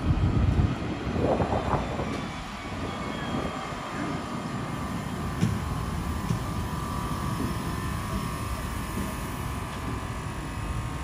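Alstom Citadis 405 tram running along the line: a steady low rumble, with a faint steady whine joining in about three seconds in.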